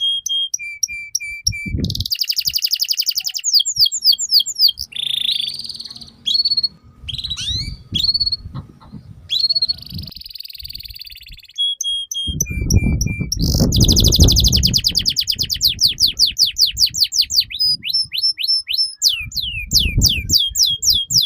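Domestic canary singing a long, continuous song of rapid trills, fast runs of sweeping notes and short buzzy repeated notes, changing phrase every second or two. A low rumble underlies part of the song around the middle.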